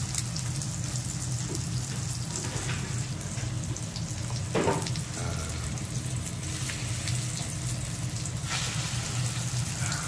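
Egg-battered thin beef slices (yukjeon) sizzling in oil in a frying pan: a steady frying hiss over a low hum.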